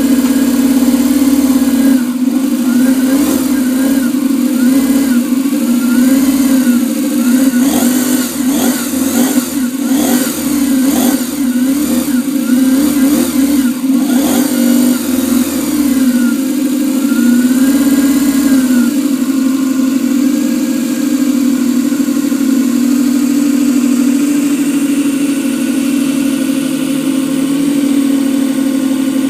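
Model V8 engine with electronic fuel injection running, its pitch rising and falling as the throttle is blipped again and again over the first twenty seconds or so, then running steadily for the rest.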